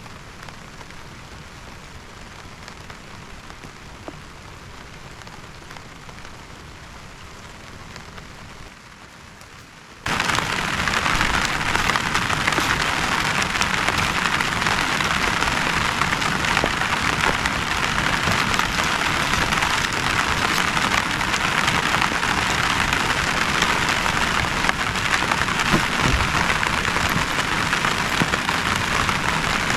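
Steady rainfall, moderate for about the first ten seconds, then abruptly much louder heavy rain that holds steady.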